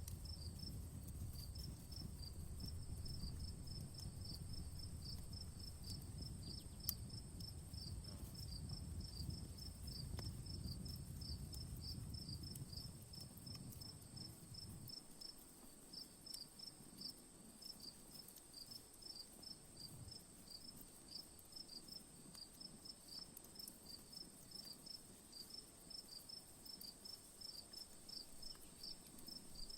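An insect chirping steadily in a fast, even rhythm, about four chirps a second, over a campfire crackling faintly. One sharp crackle stands out about seven seconds in, and a low rumble underneath stops about halfway through.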